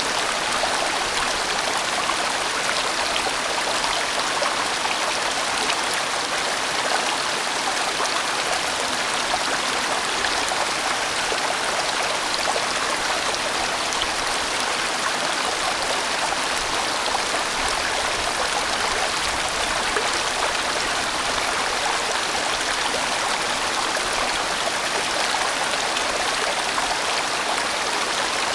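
A sizeable mountain valley stream flowing in broad bends, giving a steady, even rush of running water.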